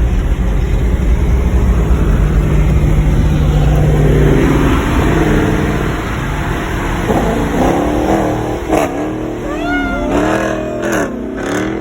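Dodge Challenger R/T's straight-piped V8 running loud at highway speed, its pitch climbing for a few seconds as it accelerates. About halfway through, the engine eases off and a wavering wail that rises and falls comes in over it several times.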